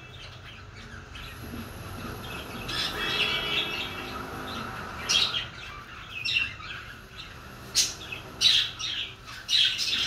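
Birds chirping and squawking at irregular intervals, with the sharpest calls coming in the second half.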